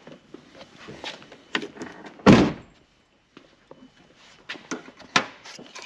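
Light clicks and knocks of hands handling parts around the fuse box, with one loud thump about two seconds in.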